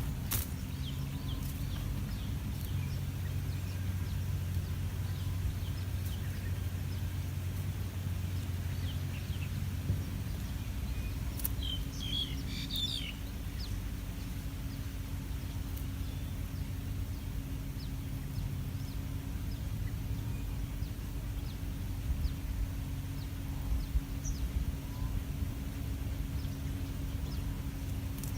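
Outdoor riverbank ambience: a steady low mechanical hum with scattered bird chirps, a short burst of chirping about twelve seconds in, and a sharp click at the very start.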